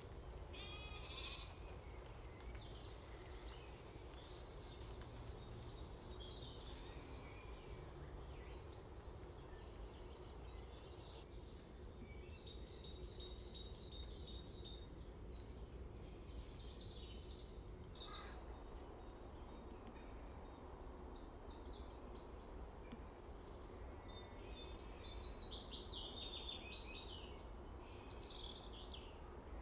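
Woodland birds singing: several short high trills and chirps, the loudest about 25 seconds in, over a faint low steady rumble.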